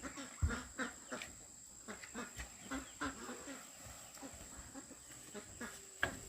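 Chickens clucking softly, among many small irregular clicks and taps, with a sharper click about six seconds in.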